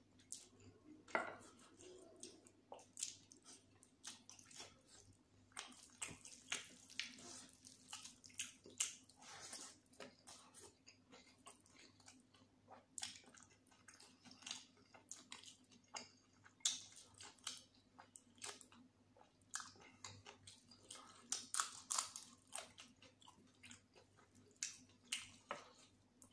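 A person chewing mouthfuls of chicken biryani with raita and gravy: many short wet smacks and chewing clicks at an uneven pace.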